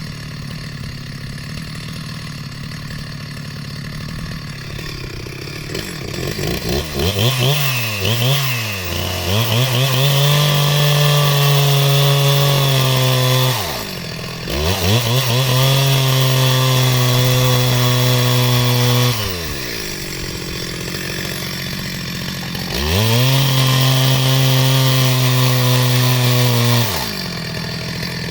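Two-stroke chainsaw cutting wooden rafters. It idles, then is throttled up to full speed three times for a few seconds each, dropping back to idle between cuts.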